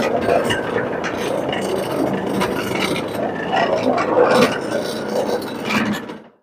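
Carpet cleaning machine running over carpet, a steady noise with scraping strokes, cutting off about six seconds in.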